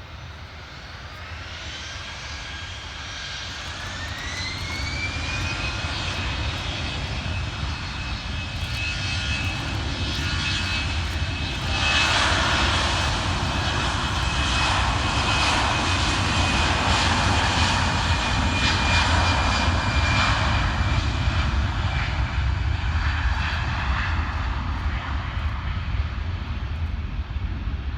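Jet airliner engines: a whine rising in pitch over the first few seconds as they spool up, then a much louder roar from about twelve seconds in that holds and eases a little near the end.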